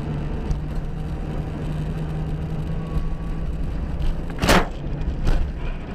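Steady drone of a car's engine and road noise picked up by a dashcam, with a brief loud noise about four and a half seconds in and a smaller one just after.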